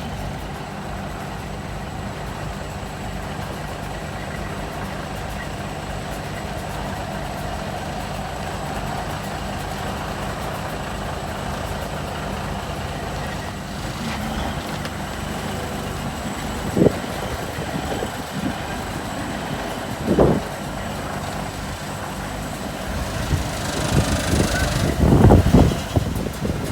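Heavy diesel truck engine idling steadily, with two sharp knocks around the middle and a louder cluster of knocks near the end.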